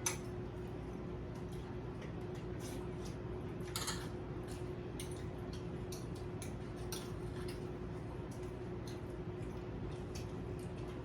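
Spoons and forks clicking and scraping lightly on plates during a meal, scattered irregular ticks over a steady low background hum.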